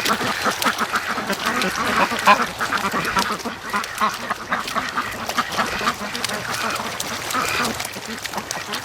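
A flock of Pekin ducks quacking, with many short calls overlapping in a steady chatter.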